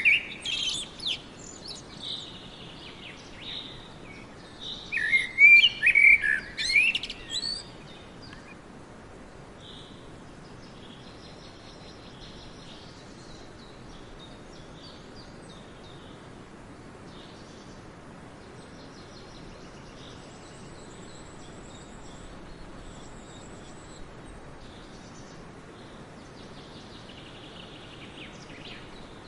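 Songbirds singing and chirping in quick, varied phrases, loudest in the first eight seconds, then only faint scattered calls over a steady background hiss.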